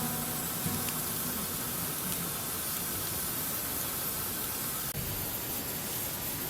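Steady, even hiss, with faint music tones fading out in the first couple of seconds.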